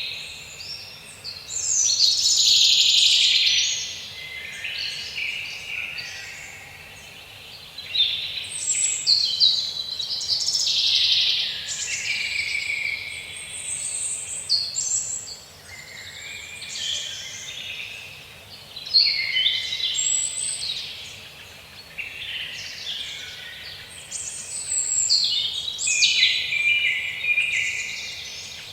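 Forest birdsong: several birds chirping and trilling in overlapping high-pitched bursts of song, with short lulls between the bouts.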